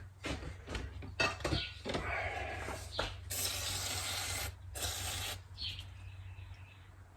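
Small clicks and knocks of carburetor parts being handled, then two short hissing spray bursts, about three and a half and five seconds in, aimed at blowing out a clogged carburetor jet.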